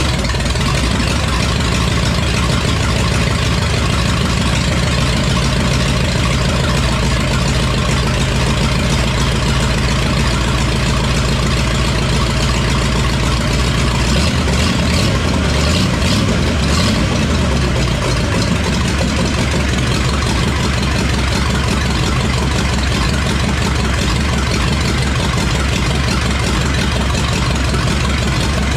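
Ford 5.8-litre V8, newly swapped into a 1982 F-100, running steadily at idle just after its first start. The owner thinks its ignition timing still needs advancing.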